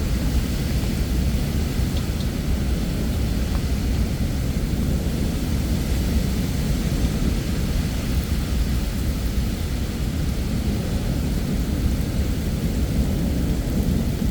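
Heavy rain falling steadily during a summer thunderstorm, with a continuous low rumble beneath the hiss.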